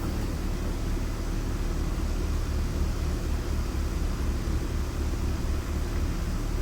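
2023 Honda CRF450R's single-cylinder four-stroke engine idling steadily, running again now that its no-start problem is fixed.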